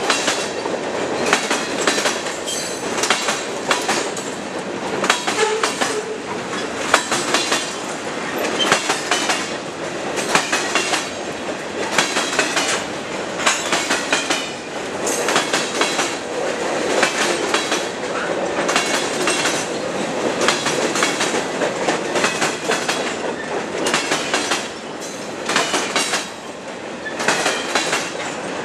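Freight cars (boxcars and covered hoppers) of a long BNSF train rolling past: a steady rumble and hiss of steel wheels on rail, broken by frequent, irregular clacks and knocks as wheels cross rail joints.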